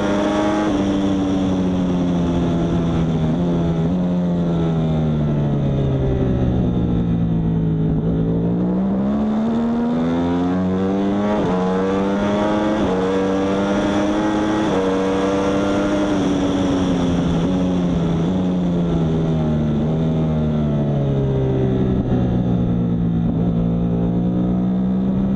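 Yamaha R1 superbike's inline-four engine at racing speed, its pitch climbing and dropping several times as the bike accelerates and then brakes and downshifts, with its lowest note a little before the end followed by another climb.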